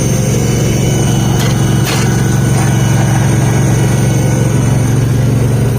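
Garden tractor engine running at a steady speed, with a couple of brief clicks a second or two in.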